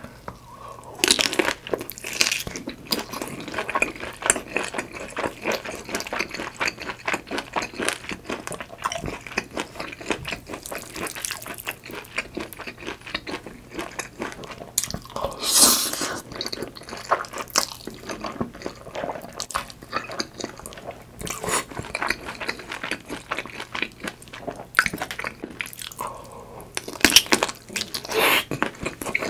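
Close-miked eating of sauced mi goreng noodles and kielbasa sausage: a fast, continuous run of wet, sticky chewing clicks. There are a few louder bursts about a second in, around the middle and near the end.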